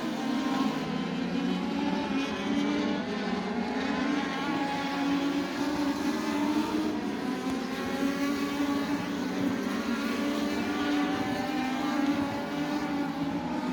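INEX Legends race car engines, Yamaha motorcycle-derived four-cylinders, running at speed in practice. The engine note keeps climbing in pitch as a car accelerates, over and over.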